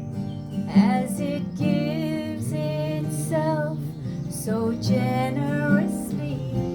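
A woman singing a slow, gentle song to acoustic guitar accompaniment, her held notes wavering in pitch.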